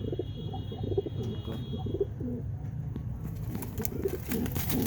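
Domestic pigeons cooing, low repeated coos one after another, with a few sharp clicks near the end.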